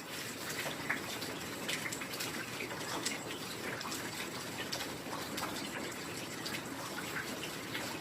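Heavy rain falling steadily, with many separate drops striking close by over a dense hiss.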